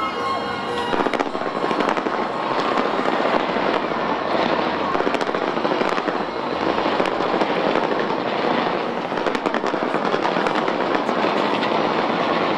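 Fireworks going off without pause: a dense run of crackles and bangs.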